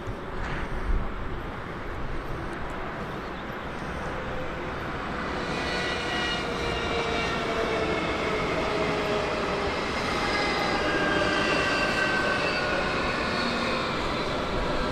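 Electric train arriving and slowing down. From about five seconds in, a cluster of high whining tones builds and slowly falls in pitch as the train decelerates.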